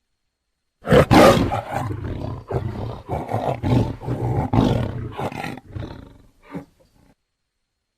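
Tiger growling: one long rough, pulsing growl lasting about five seconds, starting about a second in and loudest at its start, followed by one short grunt near the end.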